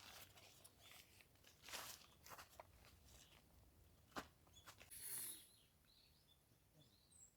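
Near silence outdoors: a few faint scattered clicks and a brief soft rustle, with faint bird chirps near the end.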